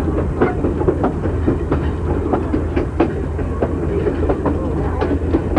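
Passenger train rolling along the track: a steady low rumble from the wheels on the rails, with irregular sharp clicks and knocks as the wheels cross rail joints.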